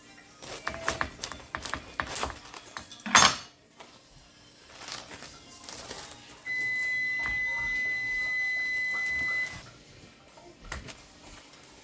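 Small clinks and knocks with one loud, short clatter about three seconds in, then a steady, high-pitched electronic beep held for about three seconds.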